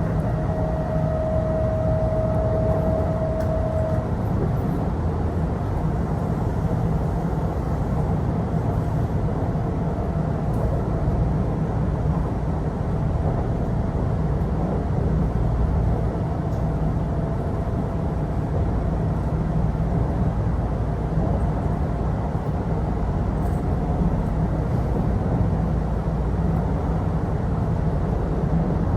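Kintetsu Osaka Line electric train running along the line, heard from inside the car: a steady low rumble of wheels and running gear, with a thin steady whine near the start that fades about four seconds in.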